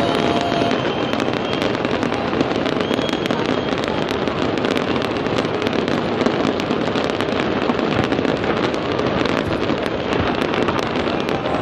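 Fireworks display: a dense, unbroken barrage of crackling and popping bursts, many sharp reports packed closely together at a steady loudness.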